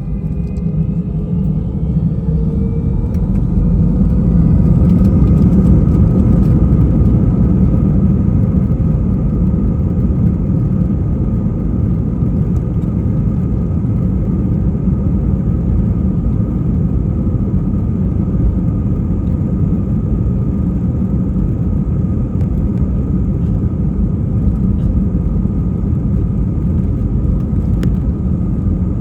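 Airbus A320's IAE V2500 turbofan engines heard from inside the cabin, their whine rising as they spool up over the first few seconds, then a loud, steady heavy rumble with a held whine, as at takeoff thrust.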